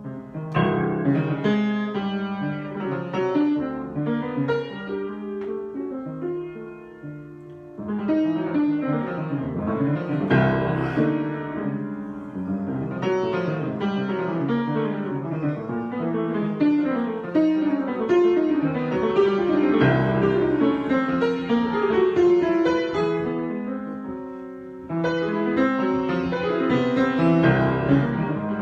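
Piano improvisation: flowing runs and chords that thin out twice and then come back in louder, near the middle and again near the end.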